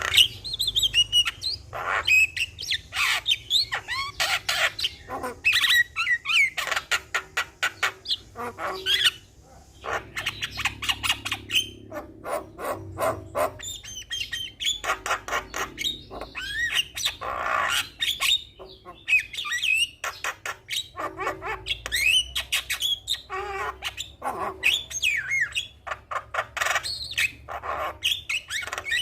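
Javan myna (jalak kebo) in full, energetic song: a fast, unbroken stream of chattering clicks, harsh squawks and whistled, gliding notes, with a brief pause about nine seconds in.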